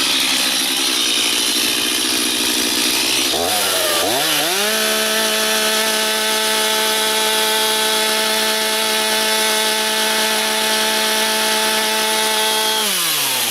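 Stihl two-stroke chainsaw running at high throttle. Its pitch dips and climbs again about four seconds in, holds steady for most of the rest, then drops back toward idle near the end.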